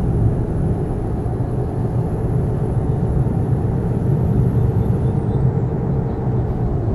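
Scania K420 double-decker coach on the move: a steady low rumble of diesel engine and road noise. A faint high whine drops in pitch about five seconds in.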